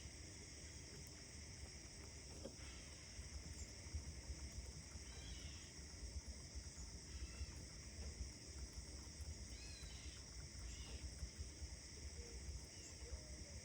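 Faint outdoor morning ambience: birds give short chirps every second or two over a steady high hiss and a low rumble.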